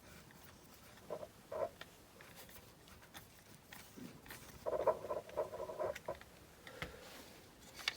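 A small screwdriver turning a screw into the plastic base of a die-cast model car. It makes faint scratches and light clicks, with a squeaky, grinding stretch lasting about a second around the middle.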